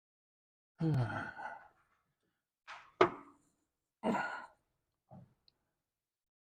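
A man sighing wearily, a drawn-out exhale about a second in and another around four seconds in, with a single sharp knock just before the three-second mark.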